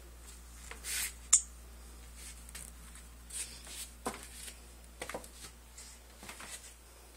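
Scattered soft rustles and light clicks, with one sharper click about a second in, over a steady low hum.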